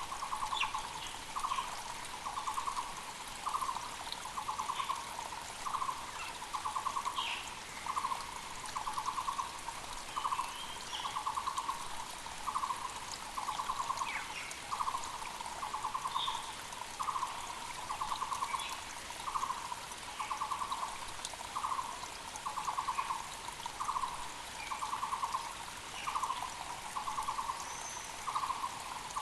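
Muller's barbet calling, a rapidly pulsed low note repeated about once a second in alternating short and longer phrases, the loudest sound throughout. A mountain creek runs steadily underneath, with a few faint chirps from other birds.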